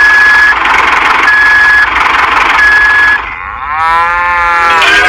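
Loud, hissy engine noise with a high reversing beeper sounding three times, each beep about half a second long. A little past three seconds the noise stops and a drawn-out pitched call follows, sagging in pitch.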